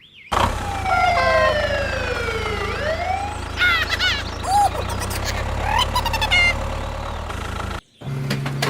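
A siren wailing in long falling and rising sweeps with quicker warbling glides, over a steady low engine hum. Both cut off abruptly near the end.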